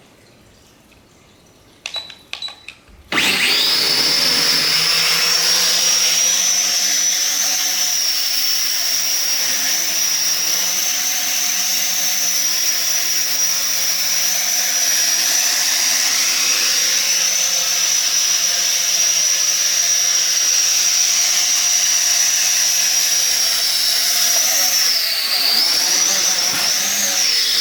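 Sky Viper v950 quadcopter's four small electric rotor motors, silent at first apart from a few faint clicks, spin up suddenly about three seconds in into a loud, steady high whine as the drone hovers. Near the end the pitch dips and climbs back once.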